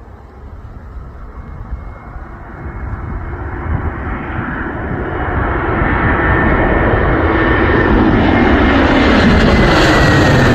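Jet airliner on approach, its engine noise growing steadily louder as it comes closer, with a high whine that dips slightly in pitch near the end as it passes.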